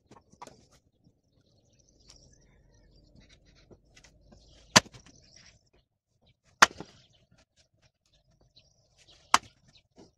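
Three sharp knocks, each a couple of seconds apart, with fainter tapping and scraping between them: work blows during fireplace building.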